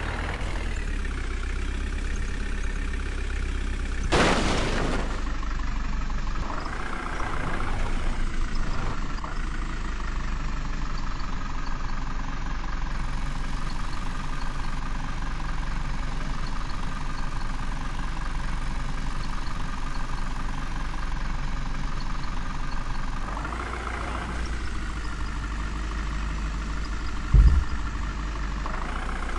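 An engine running steadily at idle, with a brief loud rush of noise about four seconds in and a short sharp knock near the end.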